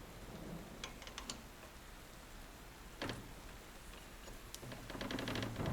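Faint, scattered metal clicks and taps as a steel boring bar is slid and seated into a lathe tool holder.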